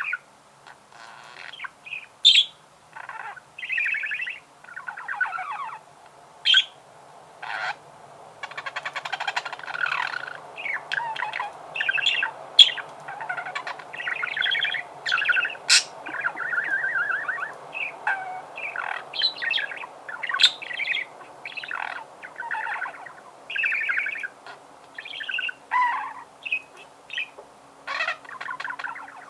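Pet budgerigar warbling, a continuous run of short chirps, chatter and squawky notes with a few sharp clicks.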